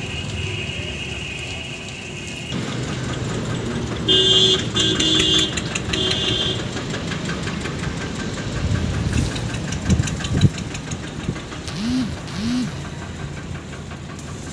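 Heavy diesel machinery engine running steadily, with a steady high-pitched tone for the first couple of seconds and a quick series of four or five short horn honks about four seconds in.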